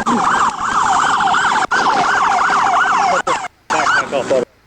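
Police car siren in its fast yelp, a loud wail sweeping up and down about two and a half times a second, cut off briefly twice in the second half.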